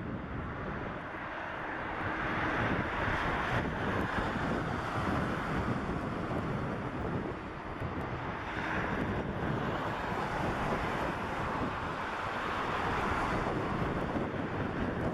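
Jet engines of a four-engine Boeing 747-400 running, a steady rushing noise that swells and eases slightly, with wind buffeting the microphone.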